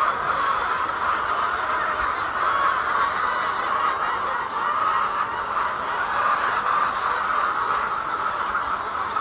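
A large flock of laying hens clucking and calling all at once, a dense unbroken din.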